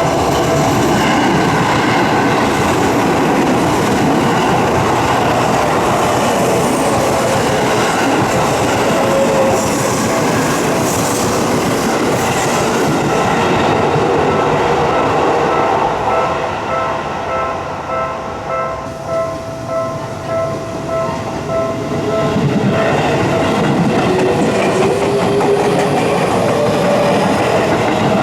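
Electric commuter train passing over a level crossing, its wheels clattering over the rails, while the crossing's warning bell rings in a steady repeating tone. The train noise eases off about two-thirds of the way through, then swells again near the end.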